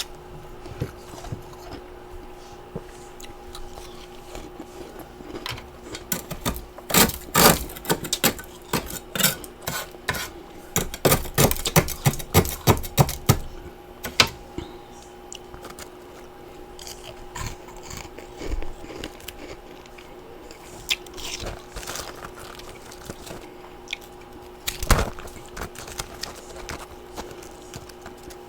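Freezer frost and ice chunks bitten and crunched close to the microphone: a quick run of loud crunches from about six to fourteen seconds in, then scattered single crunches, with one loud crunch near the end. A faint steady hum runs underneath.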